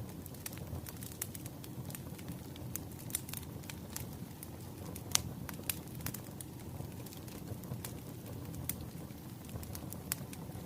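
Wood fire crackling, with irregular pops and snaps over a low steady rumble of the flames; one louder pop about five seconds in.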